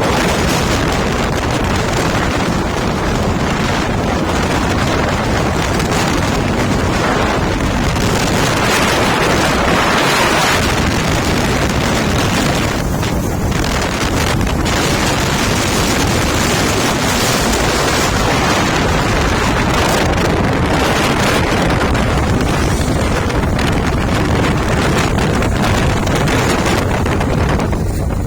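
Wind rushing over the microphone of a fast-moving motorbike, a loud steady rush that covers any engine or tyre sound.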